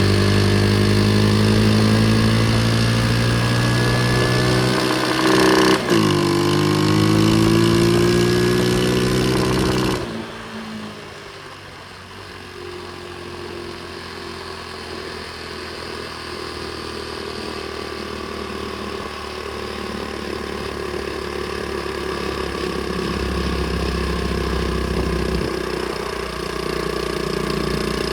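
Pit bike engine running while riding, its pitch dipping sharply and climbing again about six seconds in, like a gear change. About ten seconds in it suddenly drops much quieter, as if off the throttle, then slowly builds again.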